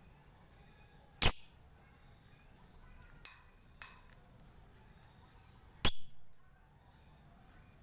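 Lovebird giving short, sharp ticking chirps, the clicking 'ngetik' call: four separate ticks, the loudest about a second in and near six seconds, over faint background chirping.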